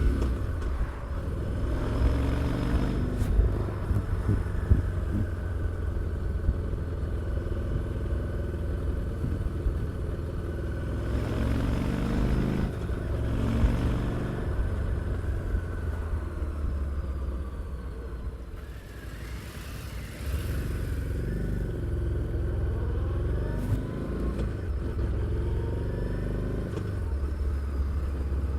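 Harley-Davidson Street 750's liquid-cooled V-twin engine and exhaust running under way, its pitch rising and falling with the throttle. The engine eases off and goes quieter about two-thirds of the way through, then picks up again.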